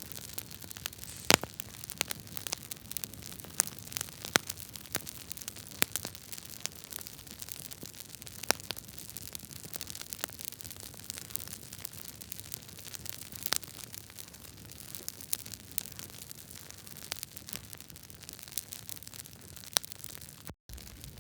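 Wood fire burning in a fireplace: a steady hiss of flames with logs crackling and popping at irregular moments, a few pops sharper than the rest. The sound cuts out for a split second near the end.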